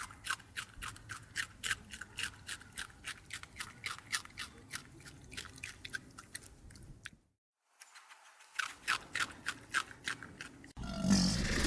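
Farm animal chewing feed: quick, even crunches, about three or four a second, that break off about seven seconds in and start again a second later. Near the end a louder, rough noise begins.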